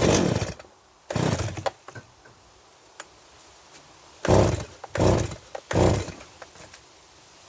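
Stihl MS170 two-stroke chainsaw being pull-started: five quick yanks on the recoil starter cord, in two groups, with the engine turning over but not catching.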